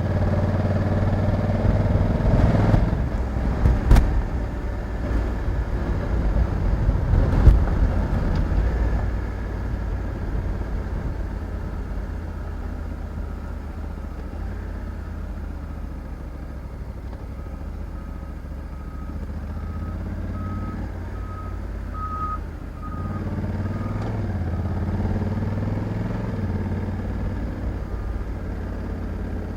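Honda Africa Twin 1100 DCT's parallel-twin engine running under way, louder with a couple of sharp knocks in the first few seconds, then steadier. In the second half a string of short, evenly spaced beeps sounds for several seconds, and the engine pitch rises briefly near the end.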